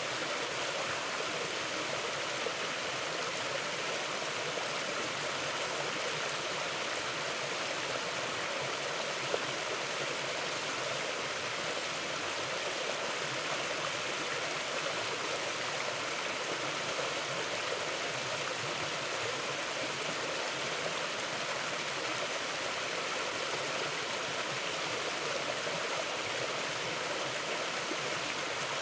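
Forest creek flowing with a steady, even rush of water.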